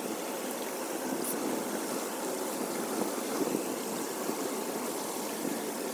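Floodwater running steadily into a cleared street drain, an even rushing of water.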